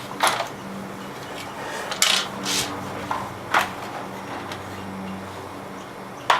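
Sharp plastic clacks and knocks, about five spread irregularly, as the base cover of a Dirt Devil Featherlite upright vacuum is handled and pulled apart after its screws are removed.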